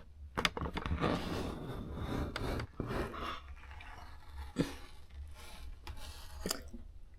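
Handling noises: scraping and rubbing, loudest in the first few seconds, with several sharp clicks in between.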